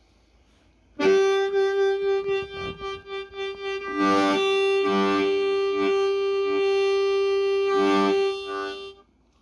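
Harmonica amplified through a small Fender Squier SP-10 guitar amp: after about a second of quiet, one long note is held for some eight seconds, with fuller chords pulsed over it several times, and cuts off just before the end.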